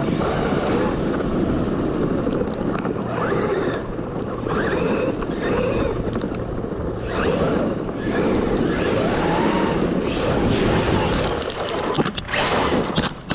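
ARRMA Talion 6S RC car's brushless motor whining up and down in pitch as it is driven hard, its tyres churning loose dirt and gravel, with louder surges near the end.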